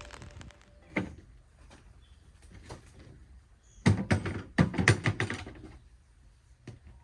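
A sharp knock about a second in, then a quick cluster of knocks and clatters, like objects being handled or a door or lid being worked, over a faint low hum.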